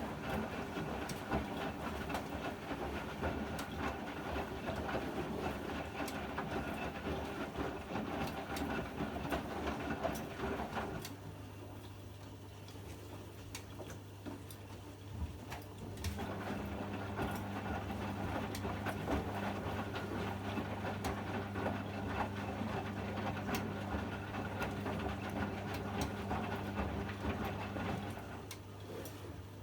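Privileg 804 washing machine tumbling a load: the drum turns with a rumbling, clattering sound, stops for about five seconds while a steady low hum goes on, then turns again before stopping near the end. This is the usual start-stop rhythm of a wash cycle.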